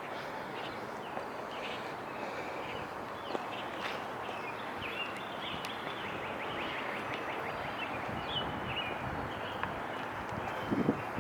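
Steady hum of downtown street traffic, with faint short chirps and a few light clicks over it, and a brief louder sound near the end.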